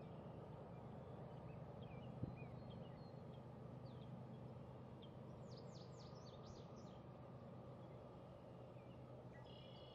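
Scattered bird chirps, with a quick run of falling chirps midway, over a faint steady low rumble. A single light knock about two seconds in.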